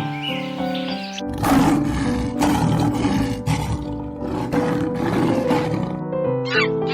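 Background music with a long, rough roar sound effect over it from about a second in, fading near the end as short chirps come in.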